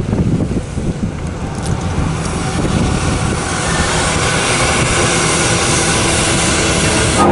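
Heavy truck's diesel engine running low, with a rushing road and wind noise that grows louder over the last few seconds.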